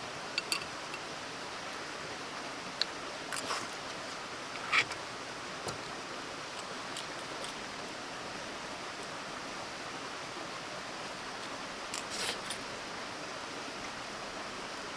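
Campfire burning with a steady hiss and a few scattered sharp pops and clicks, the loudest about five seconds in and a short cluster near the end.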